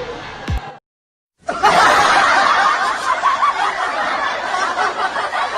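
Background music that cuts off abruptly, a half-second of dead silence, then a crowd of spectators laughing and chattering loudly.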